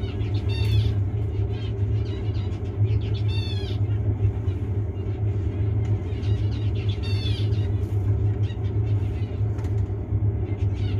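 Zebra finches in a breeding cage giving short, bright, nasal calls and song phrases in bursts every few seconds, over a steady low hum that is the loudest sound throughout.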